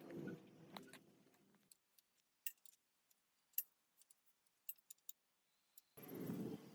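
Scattered light metallic clinks and taps, as of small metal parts or tools being handled, after a low steady hum that stops about a second and a half in; a louder low rumbling noise starts near the end.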